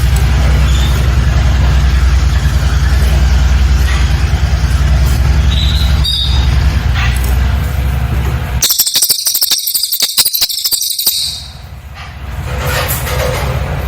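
A cililin songbird's rapid, dense high-pitched trilling bursts out about nine seconds in and lasts about two seconds. Before it, a loud low rumble dominates.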